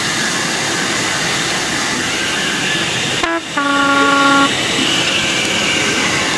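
Continuous train running noise, with one steady note of a train's horn about a second long roughly halfway through.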